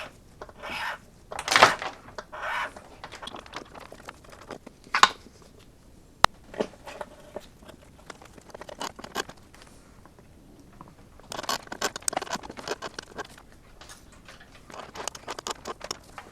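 A hand tap cutting threads into a coil-bolt hole in an aluminum valve cover: short, irregular scraping and rasping strokes with scattered clicks, in clusters near the start and again in the second half.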